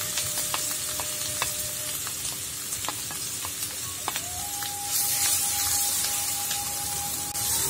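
Ground spice paste sizzling in hot oil in a frying pan while ground chili is scraped in off a plate with a metal spatula, with clicks and scrapes of the spatula on plate and pan. The sizzling grows louder about five seconds in as the chili hits the oil and is stirred.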